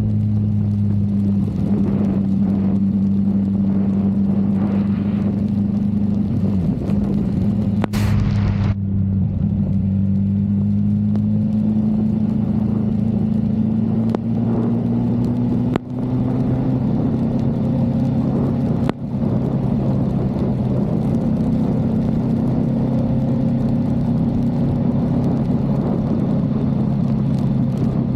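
Motorcycle engine running steadily at low road speed, its note creeping slightly higher through the middle, with a short rush of noise about eight seconds in and two brief dips in level in the second half.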